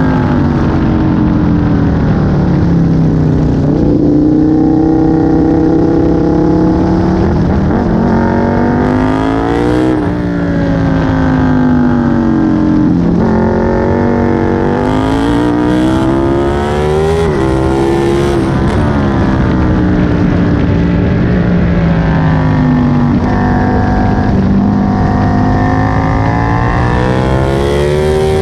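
Aprilia Tuono 1000's V-twin engine at full track pace, its revs climbing and falling again and again as it accelerates hard, shifts and brakes for corners.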